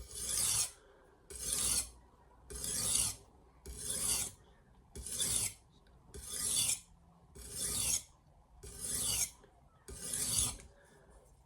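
Steel knife blade stroked across a Sharpal diamond sharpening plate to deburr the edge. There are nine even, gritty rasps, about one every 1.3 seconds.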